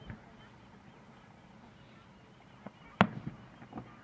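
Fireworks display: one sharp bang about three seconds in, with a few smaller pops just before and after it.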